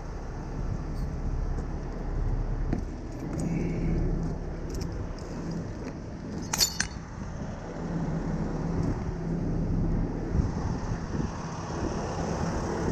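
Heavy truck engine idling, with scattered metallic clinks and one sharp clank about six and a half seconds in as a recovery chain is unhooked.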